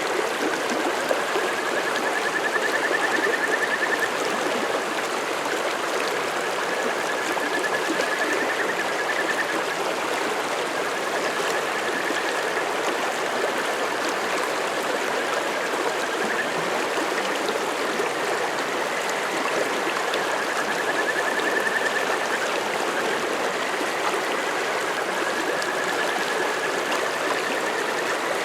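Mountain stream running steadily over rocks. Above it, a fainter trilled call rises slightly in pitch over three or four seconds and repeats about every six seconds.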